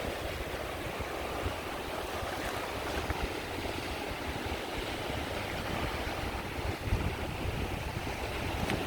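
Sea waves washing steadily onto a shore, with a deep rumble underneath and a slightly louder surge about seven seconds in.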